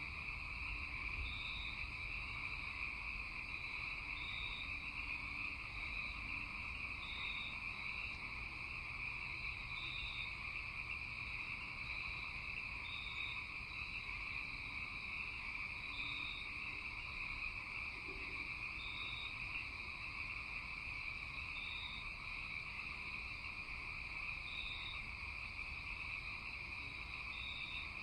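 Night chorus of crickets and frogs: a steady high trill, with short higher chirps recurring every few seconds.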